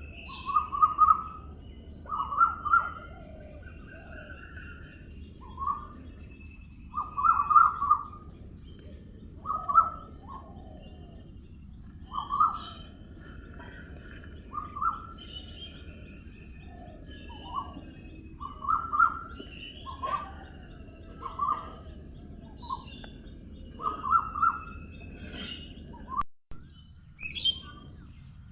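Birds calling: short clear calls repeated every second or two, with fainter higher chirps between them, over a steady low hiss. The sound drops out for an instant near the end.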